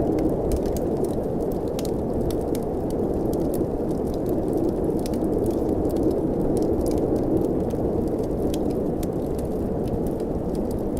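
Blizzard wind blowing steadily with a low, even rush, while a wood fire crackles over it in many small, sharp, irregular pops.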